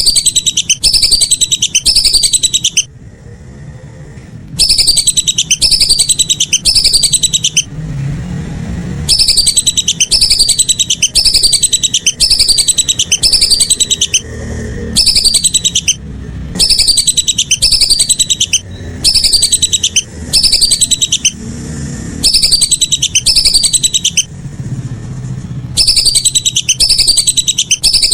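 Lesser whistling duck (belibis) calls, loud and repeated in runs of high whistled notes that each fall in pitch, broken by short pauses, like a looped lure recording. A low rumble sits underneath in the pauses.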